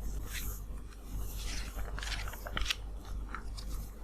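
Paper pages of a children's book crinkling and rustling as they are handled and turned, with scattered small clicks.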